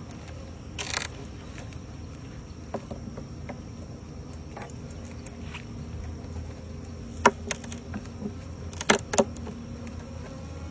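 A colony of honeybees buzzing as a steady low hum, broken by a short scraping rasp about a second in and a few sharp wooden clicks and knocks later on, the loudest near the end, as hive frames stuck together with the bees' glue are pried apart.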